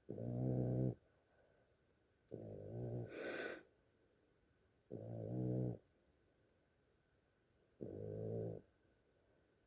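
Sleeping dog snoring: four low, rasping snores about two and a half seconds apart, with a short hissing breath in the middle of the second.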